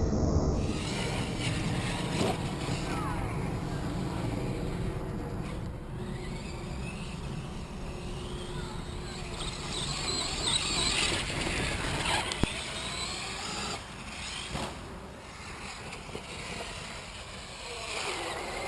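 Electric HPI Savage Flux RC truck's brushless motor whining, rising and falling in pitch as it is throttled on and off, over a steady rushing noise, with one sharp click about twelve seconds in.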